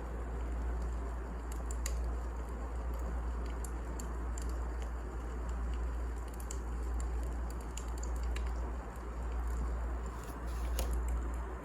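Wood fire burning in a fireplace: a steady low, noisy bed with scattered sharp crackles and pops from the burning logs.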